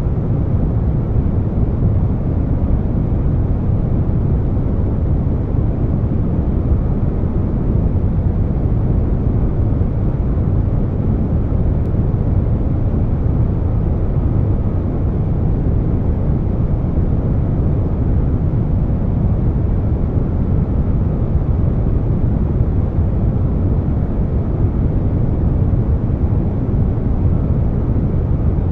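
Air conditioner noise blended with brown noise: a deep, steady whooshing hum, heavy in the bass and dull on top, with no changes.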